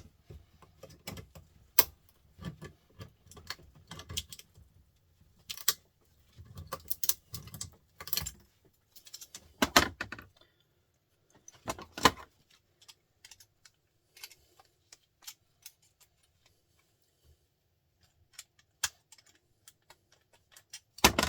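Hand tools prying and scraping apart a small printer motor's steel casing and copper windings: irregular metallic clicks, scrapes and knocks, with a few louder knocks scattered through.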